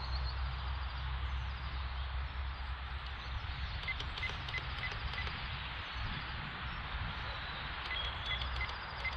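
Wind buffeting the microphone in an open field, a steady low rumble over a soft hiss. Short high chirps repeat about three times a second from about four seconds in, and again near the end.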